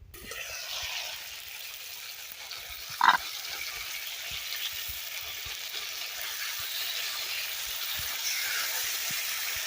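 Chicken pieces sizzling steadily in hot oil and caramelized sugar in a cooking pot, the meat browning, with faint scattered knocks as it is stirred. One brief, louder sound cuts in about three seconds in.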